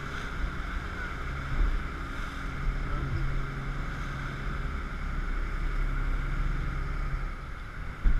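A 1,500-horsepower jet boat running through whitewater rapids: a steady engine drone with rushing water and wind, its low tone dropping out and coming back a few times. A sudden loud thump near the end.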